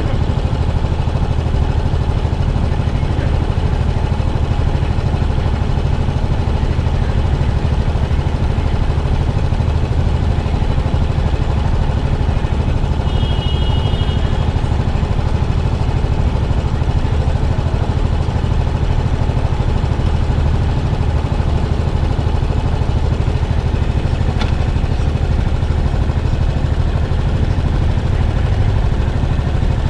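Yamaha SR400's air-cooled single-cylinder four-stroke engine through its stock muffler, running at a steady, unchanging pace with no revving. A brief high tone sounds about 13 seconds in.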